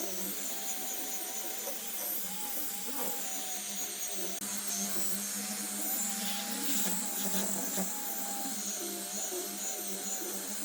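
Handheld electric power tool motor running steadily at high speed, its whine wavering slightly in pitch as the load on it changes.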